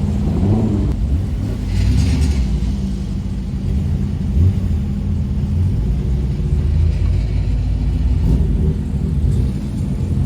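Car engine rumbling steadily at low revs, with a deep exhaust note. There is a brief hiss about two seconds in.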